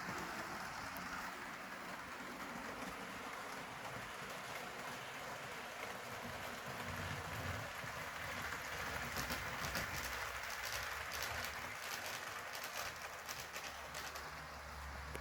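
HO scale model train with a Walthers Trainline GP15-1 locomotive running on the layout: a steady rolling hiss of small metal wheels on the rails with the locomotive's motor humming underneath, broken by scattered quick clicks in the middle and latter part.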